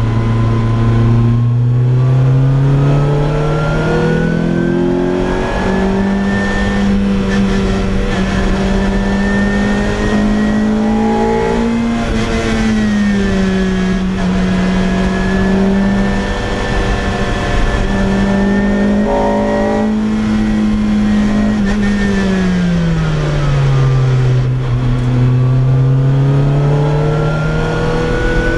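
Lotus Exige Cup's naturally aspirated four-cylinder engine and loud exhaust under way, revving up over the first few seconds and holding high revs. The pitch dips briefly about twelve seconds in and again in a long fall around twenty seconds in, then climbs again near the end.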